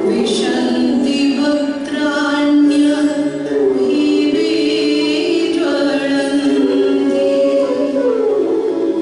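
Music with singing: long held vocal notes that glide smoothly from pitch to pitch.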